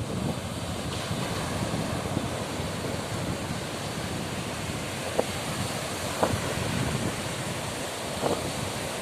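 Sea waves washing on the shore with wind buffeting the microphone, a steady rush; brief knocks, about three, stand out around the middle and near the end.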